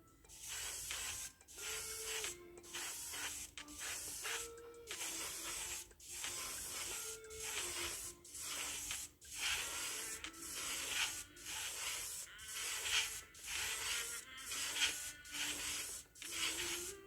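Paint sprayer hissing in short repeated bursts about once a second, over quiet background music with a simple melody.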